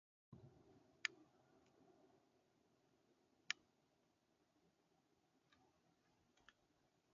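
Near silence with a faint background hiss and a few sharp, isolated clicks, the two loudest about two and a half seconds apart and some fainter ones near the end; the sound starts after a moment of dead silence.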